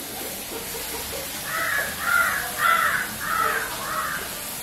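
A bird calling five times in a quick, even series, each call about half a second apart and harsh in tone.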